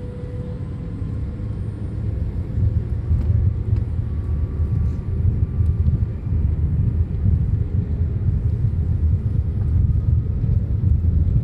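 Boeing 787 jet engines at high power, a deep rumble that grows louder over the first three seconds and then holds steady.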